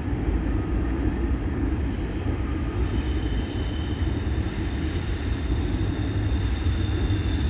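Passing train: a steady, continuous rumble of the train rolling by, with a faint thin high-pitched whine joining about three to four seconds in.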